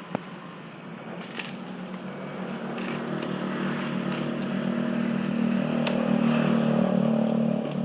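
A motor vehicle engine running, growing louder over several seconds and then easing off near the end, with a sharp click just after the start and scattered crackling ticks.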